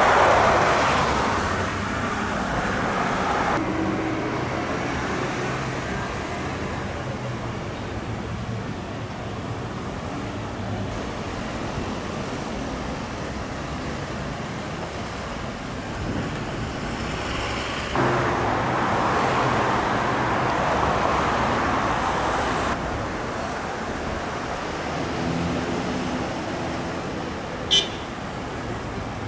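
Road traffic noise: vehicle engines running and cars passing. A short sharp click comes near the end.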